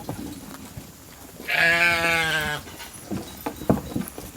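A sheep bleats once near the middle, a single wavering call about a second long, and a few light knocks from the flock follow.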